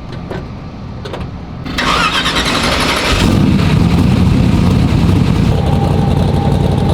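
A drag car's engine is cranked over and fires, with a loud rushing noise about two seconds in. From about three seconds in the engine runs loud and steady.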